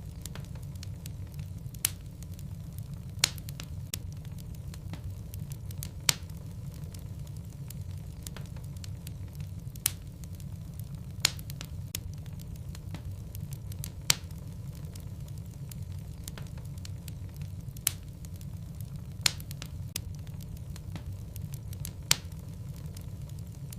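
Wood logs burning in a fireplace: a steady low rumble of the fire with sharp crackles and pops at irregular intervals, about ten loud pops in the stretch.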